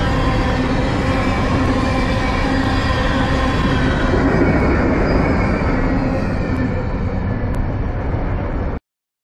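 Freight cars of a manifest train (tank cars and covered hoppers) rolling past close by: a steady rumble and clatter of wheels on rail, with squealing tones over it. It thins out as the last cars pass and cuts off abruptly near the end.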